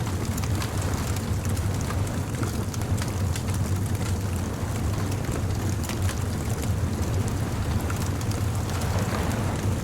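Beach bonfire ambience: a wood fire crackling in scattered small snaps over a steady low rumble of surf.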